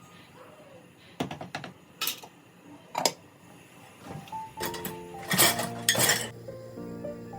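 Dishes and cutlery being handled: a few separate knocks and clinks in the first three seconds, then a run of louder knocks and short scrapes about five to six seconds in. Soft background music comes in about halfway through.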